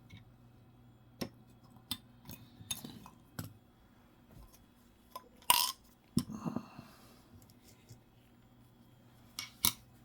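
Coins being handled and set down on a table: scattered small clicks and clinks, loudest about five and a half seconds in and again near the end, over a faint steady hum.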